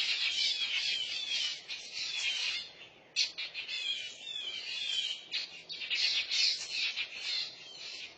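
Mockingbirds calling over and over, a dense run of rasping notes and short down-slurred calls with a brief pause about three seconds in: the alarm calls of adult birds over a fledgling on the ground.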